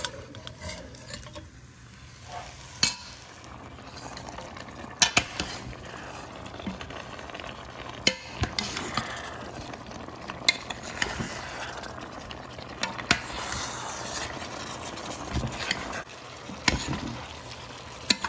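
Chicken pieces frying in onion-tomato masala in a stainless-steel pan, sizzling steadily while a metal spoon stirs them, knocking against the pan every few seconds. The chicken's extra liquid is being cooked off. The sizzle grows fuller after the first few seconds.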